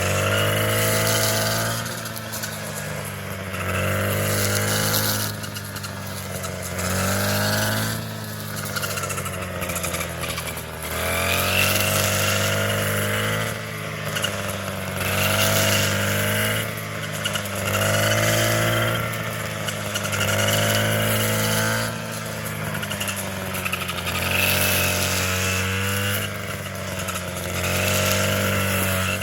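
Small petrol engine of a handheld power tool revving up and easing back over and over, about every two seconds.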